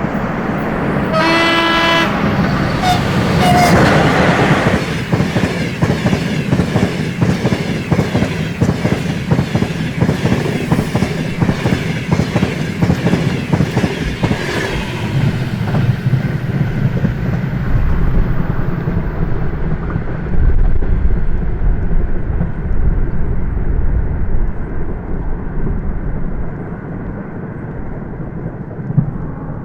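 A ChS7 electric locomotive hauling a passenger train gives a short horn blast about a second in. The coaches then pass with a rapid, even clickety-clack of wheels over rail joints, which fades to a low rumble as the train moves away in the second half.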